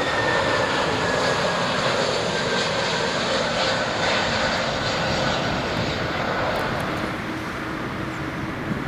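Jet airliner passing with its engines running, a whine slowly falling in pitch over the engine noise, easing off near the end.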